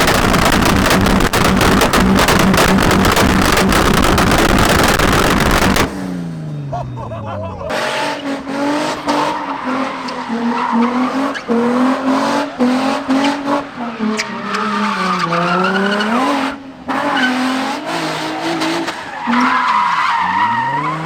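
Car engine revving hard with tyres squealing and skidding. The first six seconds are a loud, noisy stretch. After that the engine note drops, then rises and falls repeatedly.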